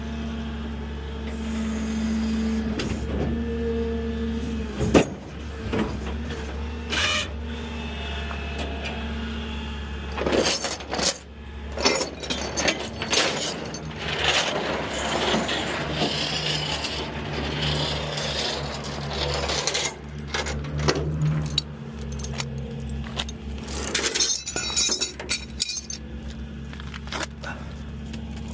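Tow truck engine running steadily, with scattered clanks and knocks from hooking-up work and a busier, noisier stretch partway through.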